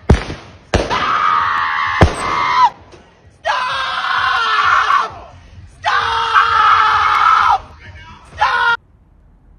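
A person screaming: four long, high-pitched screams, the last one short, with a few sharp knocks near the start.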